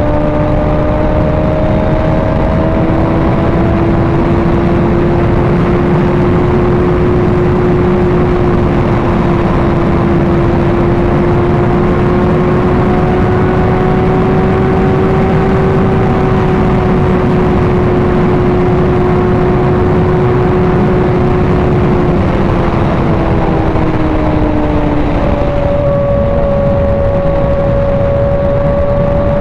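Motorcycle engine at highway cruising speed under heavy wind rush on the microphone. The engine note climbs slightly and holds, then falls back near the end as the throttle eases.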